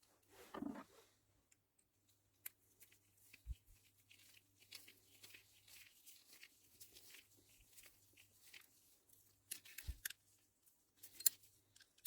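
Faint scattered clicks and light scrapes of small parts being handled, with a few sharper ticks, over a low steady hum.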